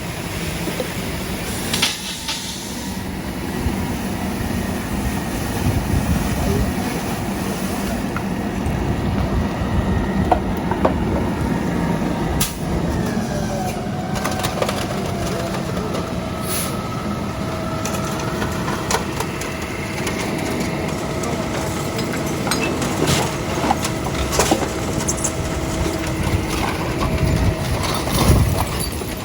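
Heavy trucks' engines running steadily, with scattered clanks and knocks. About halfway through, a steady mechanical whine joins in and stops shortly before the end.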